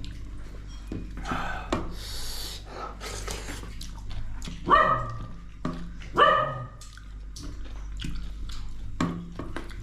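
A dog barks twice, about a second and a half apart, over scattered small clicks and clatter of eating.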